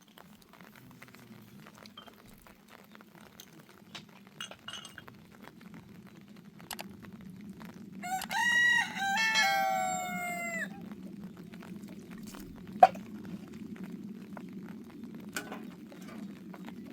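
A rooster crows once, a long call that falls in pitch at the end, over a steady low hum and scattered faint clicks. A single sharp tick comes shortly after the crow.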